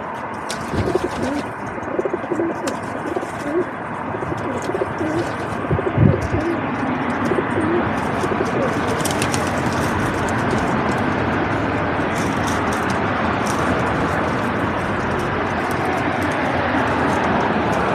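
Feral pigeons cooing: a run of short, low coos through the first half, with a single thump about six seconds in. After that, a steady hiss with scattered clicks.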